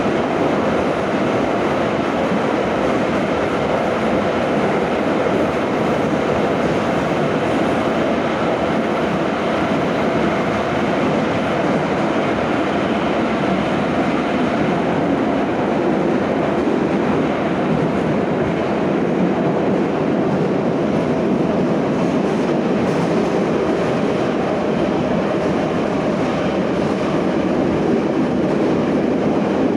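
Moscow metro 81-717/714 'Nomernoy' train running at speed through the tunnel, heard from inside the car: a steady, loud rumble of wheels on rail and running gear.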